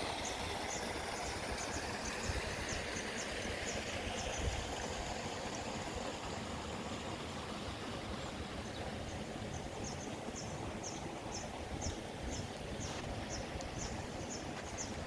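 Steady rushing of water, with a rumble like wind on the microphone. A high, short chirping call repeats about three times a second for the first few seconds, stops, and starts again about nine seconds in.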